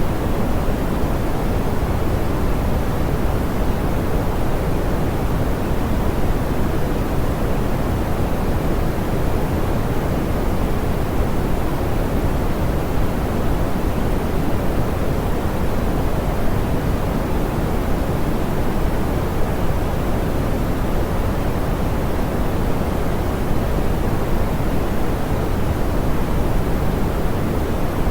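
Steady synthetic pink noise: an even, soft hiss weighted toward the low end, with no change or events.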